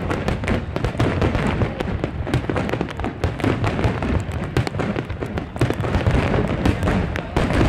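Aerial fireworks bursting in a dense, continuous barrage: deep booms overlapping with many sharp cracks and crackle, with no pause between bursts.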